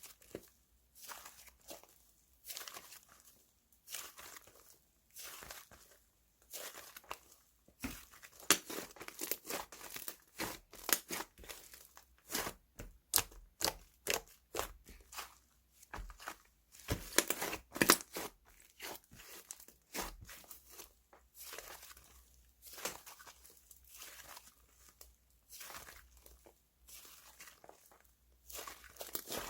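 Slime being squished and stretched by hand, giving a run of crinkly, crackling pops and clicks that is busiest in the middle.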